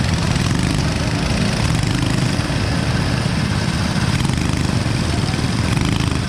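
Motorcycle engine running steadily at an even pace, with a constant rush of noise over it.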